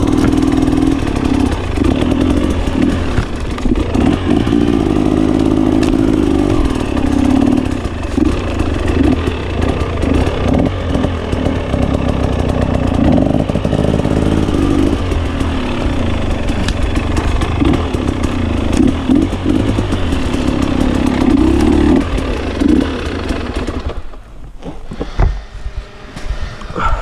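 GasGas 300 two-stroke enduro motorcycle engine running hard, its note rising and falling as the throttle is opened and closed over and over. About 24 seconds in it drops away, leaving a few scattered knocks.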